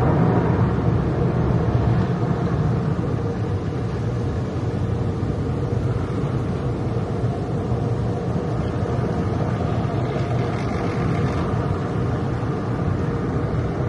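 Steady road and engine noise of a car heard from inside the cabin while driving.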